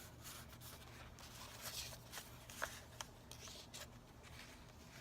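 Faint paper rustling and a few soft taps as cut paper collage pieces are slid and set down on a journal page, over a low room hum.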